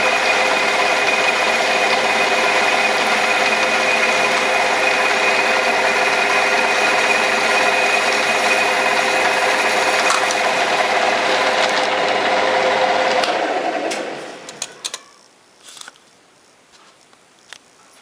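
Metal lathe running steadily with a constant whine from its motor and gearing, then switched off about 13 seconds in and winding down within a couple of seconds; a few light clicks and knocks follow.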